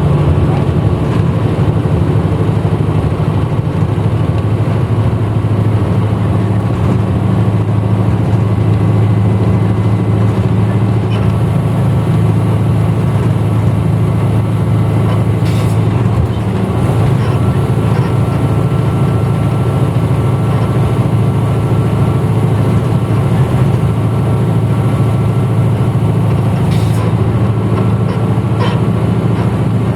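Interior running sound of a 1994 Hino Blue Ribbon route bus under way: a steady, loud low engine drone with road noise. The engine note drops slightly right at the start, then holds steady.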